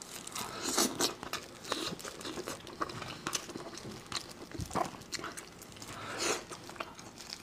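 Close-miked eating of braised sheep-head meat: biting and chewing with many irregular sharp clicks and a couple of louder bursts, mixed with the crinkle of plastic food gloves as the meat is pulled off the head.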